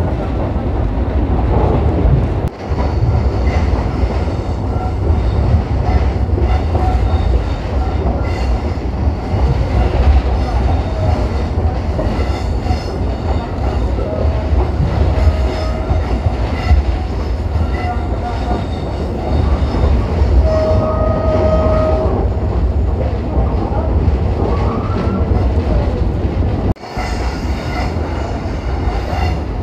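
Pakistan Railways passenger train running over the track, heard from beside a moving coach: a steady low rumble and clatter of wheels and coaches. A short steady tone sounds twice about halfway through.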